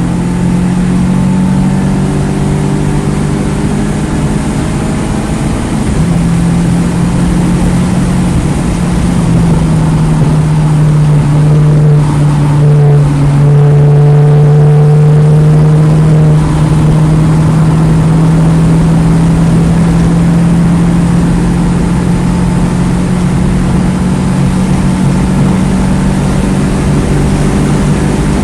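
2009 Mini Cooper S's turbocharged 1.6-litre four-cylinder engine running hard at track speed. Its note drops about six seconds in and again near ten seconds, then climbs slowly and steadily for the rest, over a steady rush of wind and tyre noise.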